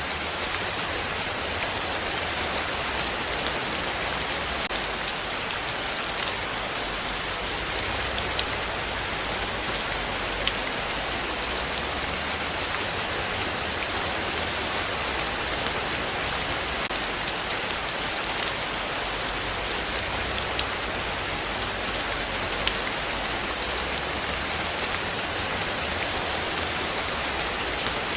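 Heavy rain falling steadily, with individual drops ticking on surfaces over a dense hiss and a low steady rumble underneath.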